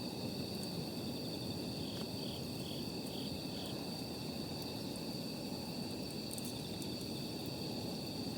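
Night insects, crickets among them, trilling steadily in several high tones, with a faint run of pulsed chirps about two seconds in, over an even low rumble.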